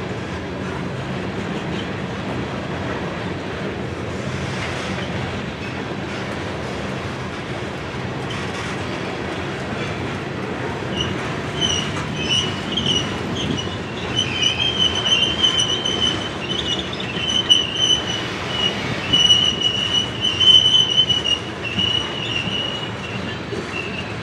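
Freight train of coal cars rolling past, a steady rumble of wheels on rail. From about halfway through, a high metallic squeal from the cars' running gear comes and goes, alongside uneven swells in loudness.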